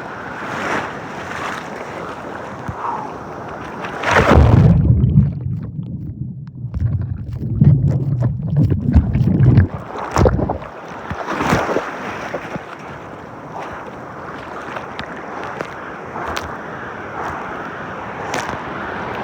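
Rough sea water splashing and surging around a swimmer, with wind buffeting the microphone. About four seconds in comes a loud splash, followed by several seconds of muffled low rumbling; then come more splashes.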